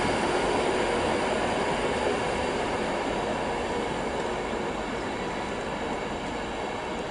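Passenger train running on the line, the steady rumble of its wheels on the track slowly fading as it moves off.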